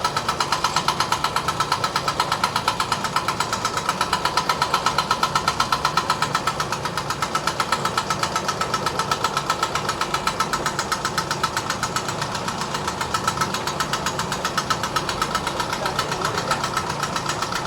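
A machine running steadily with an even, fast pulsing of about five beats a second.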